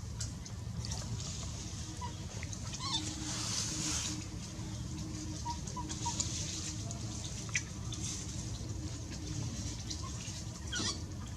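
A few short, scattered animal calls over a steady low background noise.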